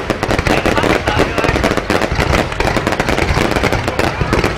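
Aerial fireworks going off in a dense, unbroken crackle of many sharp bangs a second.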